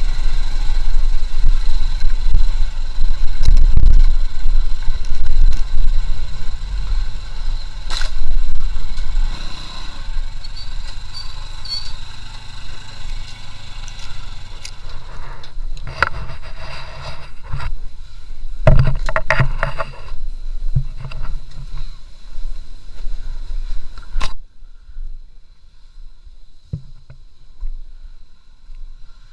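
Motorcycle riding, with a low engine rumble and wind buffeting the microphone. The sound drops off suddenly near the end.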